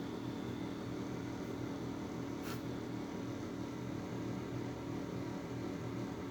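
Steady low hum and hiss of a household appliance motor, with a faint short tick about two and a half seconds in.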